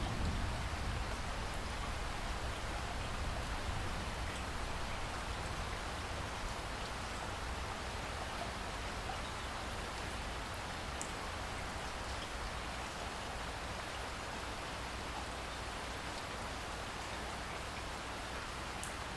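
Steady rain falling and pattering on surfaces, with a low rumble underneath that eases off in the first couple of seconds and a few faint sharp drips.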